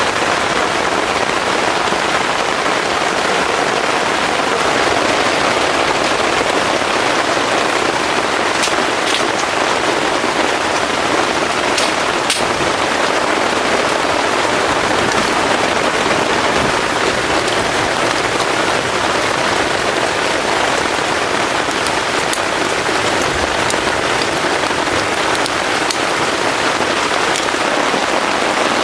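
Heavy rain falling steadily, with a few sharp drops ticking through it now and then.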